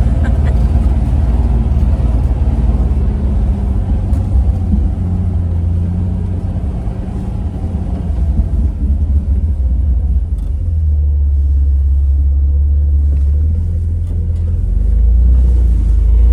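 Jeep engine running at low revs as it crawls along a rocky trail, a steady low drone that shifts in pitch about ten seconds in and again near the end.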